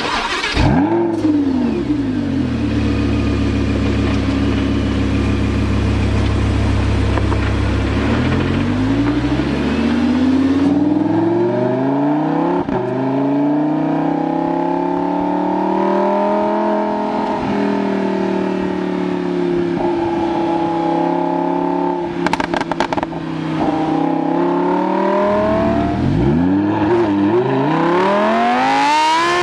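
Lamborghini Huracán LP 610-4's V10 engine and exhaust. It opens with a quick blip of revs, settles into a low steady idle, then rises in pitch about a third of the way in and runs at higher revs with the pitch slowly swinging up and down. Near the end the revs drop and then climb steeply under hard acceleration.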